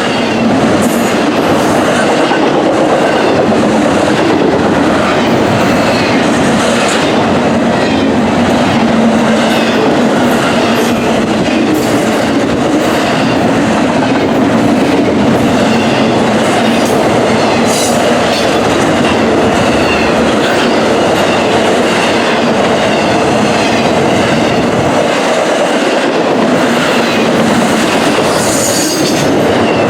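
BNSF intermodal freight train rolling past at speed, its wheels running on the rails in a steady loud rumble with a repeating clickety-clack.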